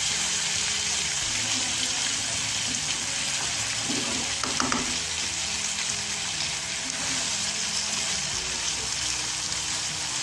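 Boiled chickpeas sizzling in oil and fried masala in a frying pan, a steady frying hiss, with a spatula stirring them through.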